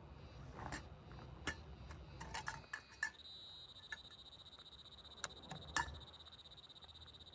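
Scattered light clicks and knocks, then from about three seconds in a steady, high-pitched, rapidly pulsing trill of a calling animal.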